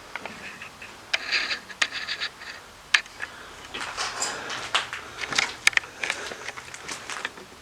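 Footsteps scuffing over a gritty floor, with irregular scrapes and scattered sharp clicks.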